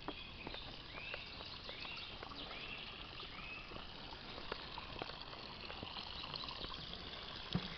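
A series of short high whistles of unknown source, each rising and then falling in pitch, about four of them under a second apart in the first half, over a steady trickle of spring water.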